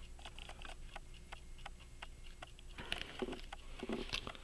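Ticking of an 18-size key-wound Illinois Springfield pocket watch movement, a run of light, even ticks a few per second.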